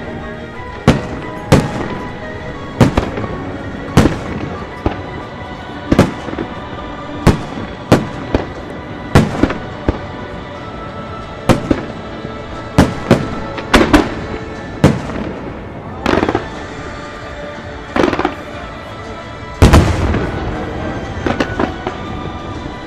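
Fireworks going off in a string of sharp bangs, about one every second, with the heaviest blast about twenty seconds in followed by a longer rumble.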